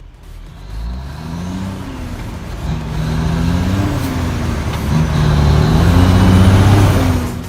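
Kenworth T800 truck's diesel engine with the engine brake working on a downhill run. Its pitch rises, holds and dips several times, and it fades in, growing steadily louder.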